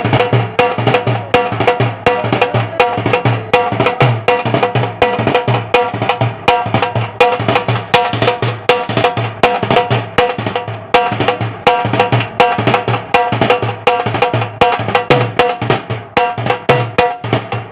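Fast, steady drumming, about four strokes a second, over a steady held tone, accompanying a puppet act.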